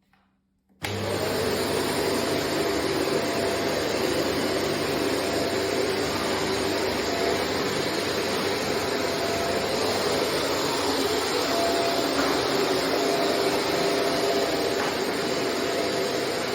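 Shark NZ690UK corded upright vacuum cleaner switched on about a second in, its motor then running steadily with a constant whine.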